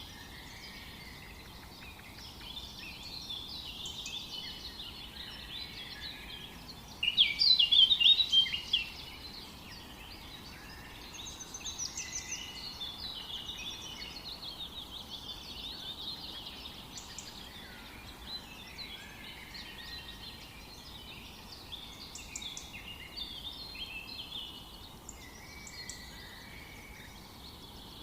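Several songbirds chirping and singing over one another, with one louder burst of rapid song about seven seconds in that lasts nearly two seconds, over a faint steady background hiss.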